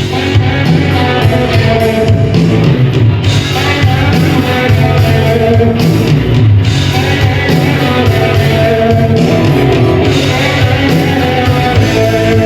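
Rock band music with guitar and a strong bass line.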